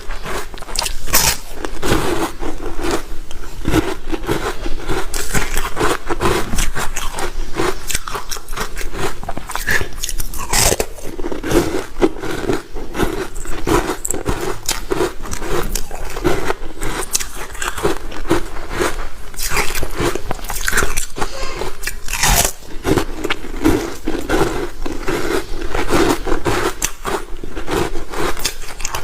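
Close-miked biting and chewing of crunchy ice, a quick run of crunches over and over.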